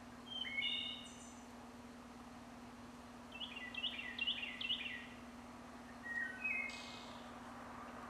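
A songbird singing three short whistled phrases, the middle one a quick run of about five downslurred notes, over a steady low hum.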